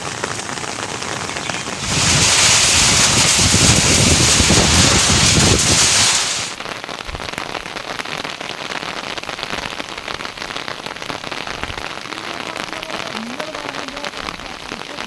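Steady rain falling, a dense patter of drops. About two seconds in, a much louder rushing hiss joins it for about four seconds, then drops back to the steady rain.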